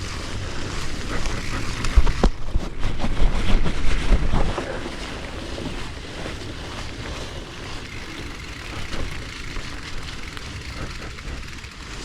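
Wind rumbling on an outdoor action-camera microphone. About two seconds in there are a few sharp knocks and a louder stretch of rumble lasting a couple of seconds, then the wind settles lower.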